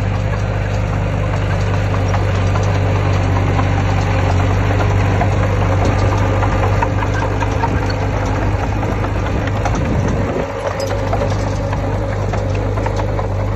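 Diesel engine of heavy earthmoving equipment running steadily, with metallic clanking and rattling throughout. The engine note dips briefly about ten seconds in.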